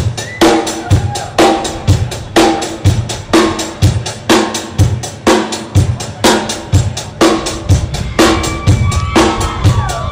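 A drum kit playing a steady beat, bass drum and snare hits a little over two a second.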